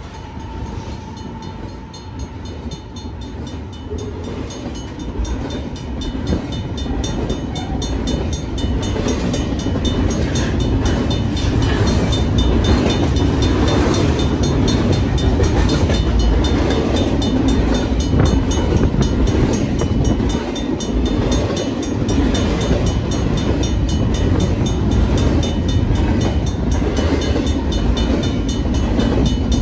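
BNSF double-stack intermodal freight train rolling past at close range: a steady rumble and clatter of steel wheels on rail that grows louder over the first ten seconds or so. The last of the train horn fades out right at the start, and a crossing bell rings steadily behind the train noise.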